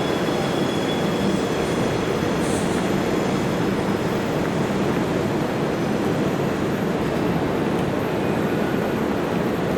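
Train running, a steady rumbling noise with no breaks.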